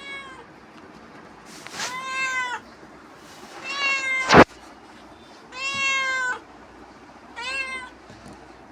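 Domestic cat meowing repeatedly: five meows, the first faint, each under a second long and rising then falling in pitch, about every two seconds. A sharp knock sounds right after the third meow.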